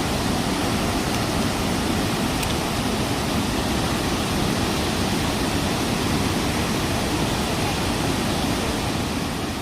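Steady rushing of a large waterfall, the Iguazu Falls, an even roar with no breaks.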